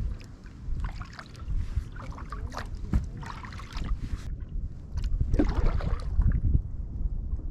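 Kayak paddle strokes splashing and dripping in short irregular clusters, over wind rumbling on the microphone that grows louder in the second half.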